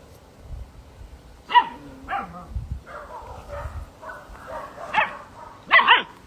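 Puppies barking and yipping in short, high-pitched calls, several times over, with the loudest pair near the end.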